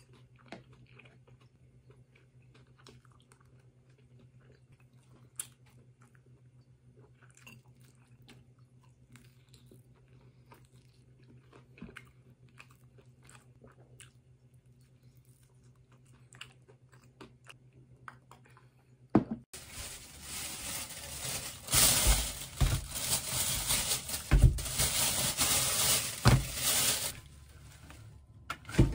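Quiet, close eating sounds: chewing and crunching of fried seaweed rolls and kimbap, heard as faint scattered crunches and clicks. About nineteen seconds in, a much louder rustling begins, with several thumps, as a large bunch of chives is handled on a cutting board.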